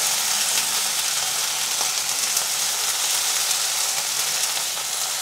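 Chopped onions, curry leaves, ginger and green chillies sizzling steadily in hot oil in a steel kadhai, with faint scrapes and taps of a wooden spatula stirring them.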